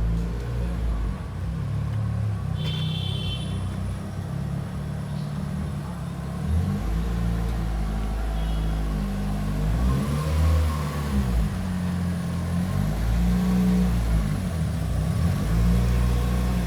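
Mitsubishi Lancer Evolution VIII MR's turbocharged 2.0-litre four-cylinder engine running on the move, its revs rising and falling through the gears.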